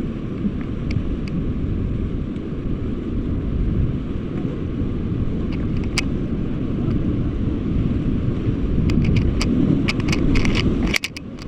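Rushing whitewater rumbling as a raft runs a rapid, with wind buffeting the microphone. Sharp splashes crowd in near the end.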